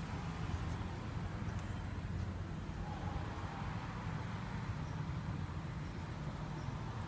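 Steady low hum of a running vehicle engine, unchanging throughout.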